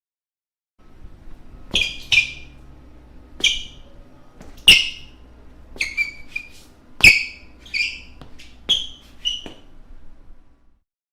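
Basketball shoe soles squeaking on a floor: about a dozen short, sharp, high-pitched squeaks in an irregular run, as in quick footwork. The run starts a couple of seconds in and stops about a second and a half before the end.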